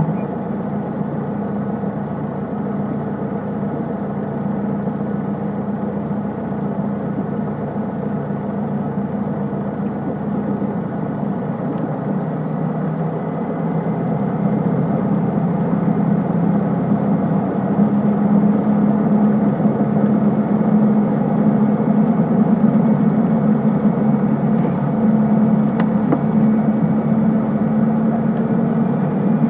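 Cessna 152's four-cylinder Lycoming engine and propeller running steadily. About halfway through, the engine gets louder and slightly higher in pitch as power is added.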